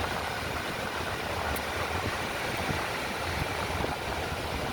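Strong wind buffeting the microphone, a steady gusting rumble over the wash of ocean surf.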